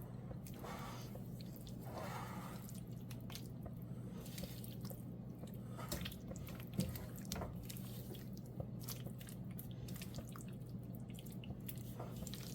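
Tomato and potato sauce simmering in a pot on very low heat, giving scattered small bubbling pops. A steady low hum runs underneath.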